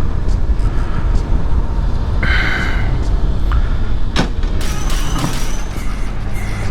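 Continuous low rumble of wind and engine from a Yamaha YZF600R that is losing power as it pulls off the road. A brief high squeal comes about two seconds in, and a sharp click just after four seconds.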